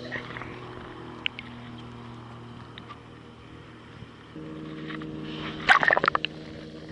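Steady drone of a motorboat engine running, its tone changing about four seconds in, over lapping water. Near the end comes a short burst of water splashing and slapping against the kayak, the loudest part.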